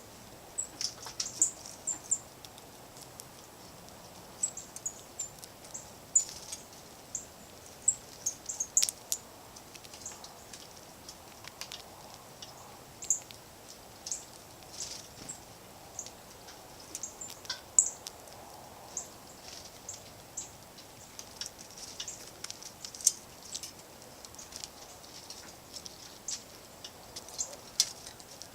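Small songbirds at a feeder giving short, high chirps and chip notes, scattered irregularly, with a few sharp clicks among them.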